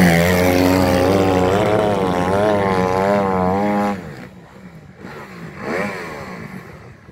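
Off-road vehicle engine running close by, its pitch wavering up and down with the throttle, then dropping away sharply about four seconds in. After that a fainter engine revs up and back down once.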